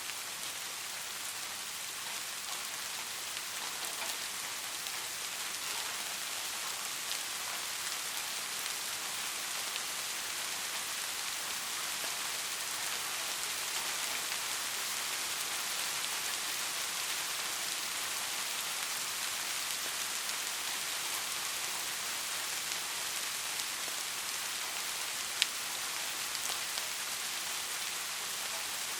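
Steady rain falling, a dense even hiss of many drops, with one sharp louder drop tick about 25 seconds in.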